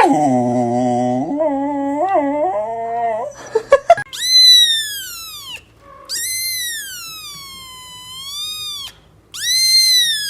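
Dog howling: first a lower, wavering howl, then three long, high howls that each rise and then slowly fall.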